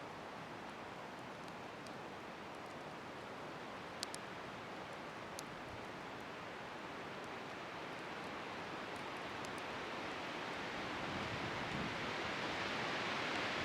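Wood bonfire burning with a few sharp crackles and pops, the strongest about four seconds in, over a steady rushing hiss of wind that grows louder near the end.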